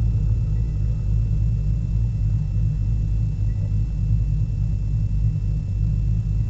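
Corvette Z06's V8 idling with a steady low rumble as the car rolls to a stop and stands, heard from inside the cabin.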